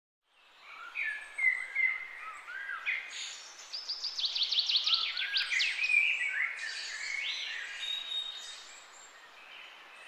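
Birds chirping and calling, several overlapping voices at different pitches, with a quick run of short falling notes around the middle.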